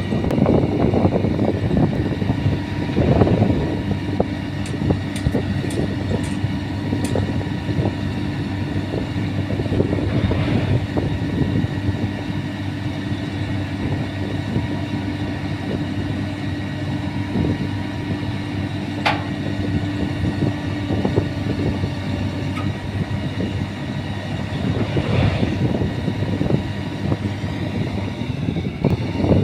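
Sany 155 rotary drilling rig running, its diesel engine humming steadily under a continual metallic rattling and clanking from the working rig, with one sharp clank about two-thirds of the way through.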